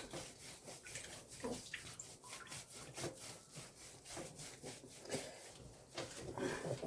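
Hands rubbing and massaging conditioner into a dog's wet, fluffy coat: soft, wet rubbing strokes, about two or three a second.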